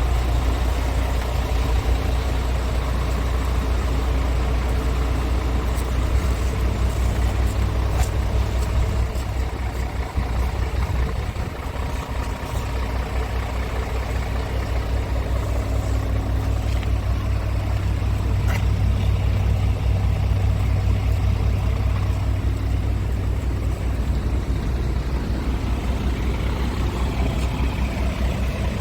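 Scania P230 truck's nine-litre five-cylinder diesel engine idling steadily, dipping slightly about ten seconds in.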